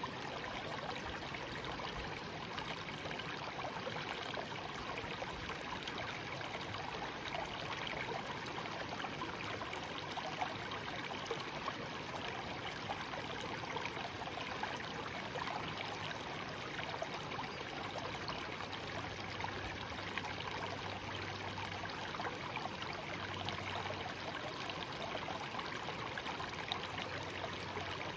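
A shallow stream babbling steadily, a continuous rush of flowing water with fine trickling detail.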